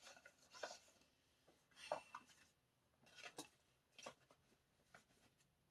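Faint, scattered rustling and light ticks of paper and photocards being handled, a few brief scuffs a second or so apart, in an otherwise quiet small room.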